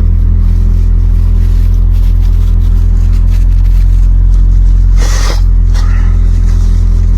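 2002 Mitsubishi Lancer's four-cylinder engine idling steadily, a little high at about 1,400 rpm after the new EGR and IAC valves went in. A brief rustle about five seconds in.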